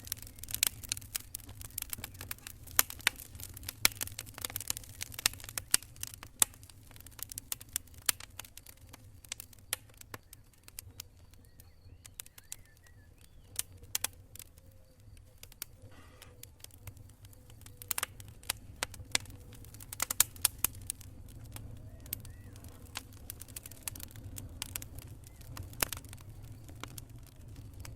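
Wood campfire crackling and popping in irregular sharp snaps, thick at the start and again in the second half, with a quieter stretch in the middle, over a steady low rumble of flowing water.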